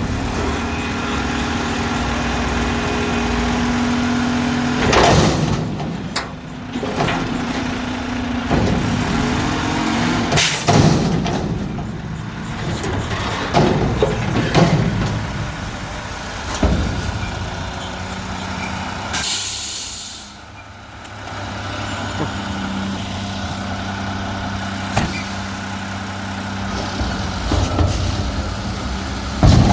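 Mack front-loader garbage truck's diesel engine running steadily, with several knocks and clanks. About two-thirds of the way through comes a loud hiss of air lasting about a second, like an air brake releasing.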